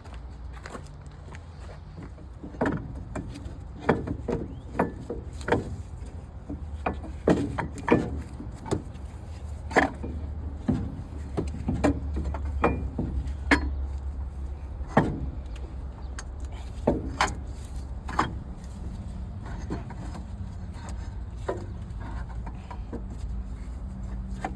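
Irregular clicks and light metal knocks from handling a truck water pump and tools, over a low steady rumble.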